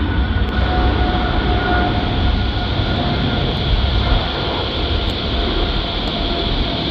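Jet airliner engines at takeoff thrust: a loud, steady roar with a deep rumble and a faint steady whine in it.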